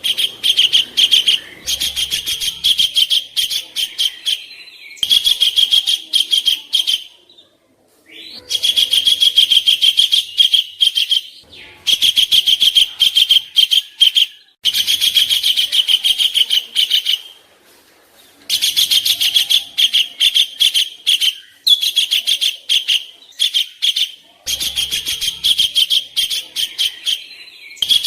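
A songbird singing rough, rapid strings of sharp notes, about ten a second, in bursts of one to three seconds with short pauses between them.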